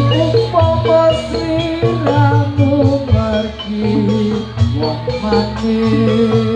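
Live gamelan music accompanying a rewo-rewo dance: tuned metal percussion playing interlocking melodic lines over drums and a steady low bass.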